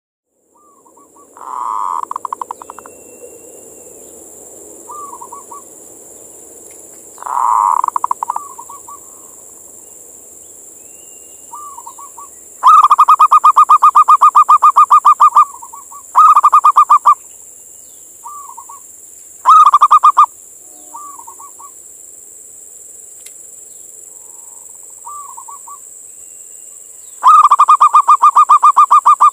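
Male zebra dove (perkutut) singing to call a female: repeated phrases of rapid pulsed coos. Short, softer phrases alternate with several much louder, drawn-out rattling bouts of one to three seconds, the longest about halfway through and again near the end.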